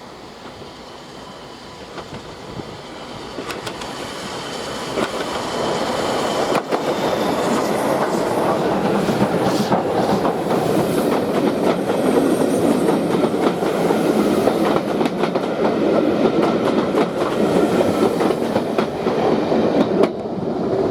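A train on a heritage railway approaching and rolling past close by, growing steadily louder over the first several seconds, then a steady rumble with repeated clicks of wheels over rail joints.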